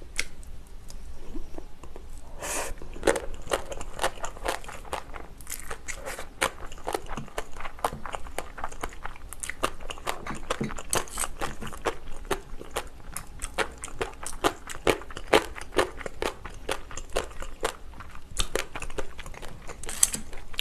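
Close-miked chewing of a mouthful of rice with oiji, Korean pickled cucumber: many crisp, irregular crunches.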